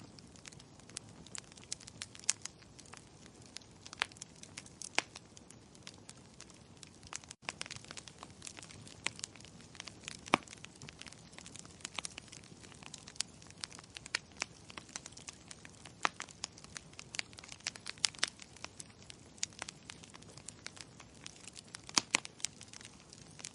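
Wood fire in a fireplace crackling: irregular sharp pops and snaps over a soft, steady hiss, with a momentary dropout about seven seconds in.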